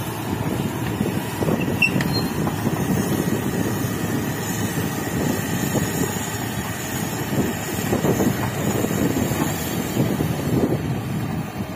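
Excavator's diesel engine running steadily as the machine works, with a continuous low, even machine noise.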